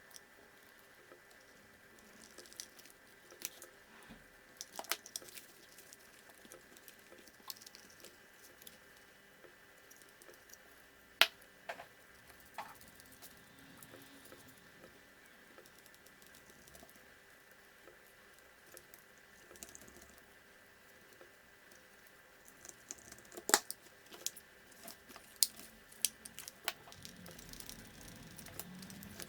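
Small plastic and metal RC car parts and hand tools being handled on a workbench: scattered light clicks and taps, one sharp click about a third of the way through and a quick run of clicks later on.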